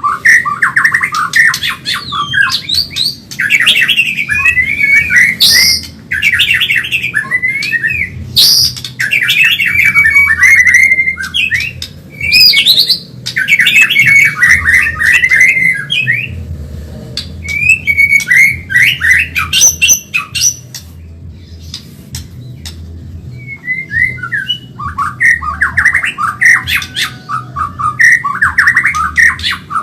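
White-rumped shama (murai batu, Medan type) singing loudly in fast, busy phrases of rapid trills and whistles, broken by short pauses, with a quieter lull about two-thirds of the way through.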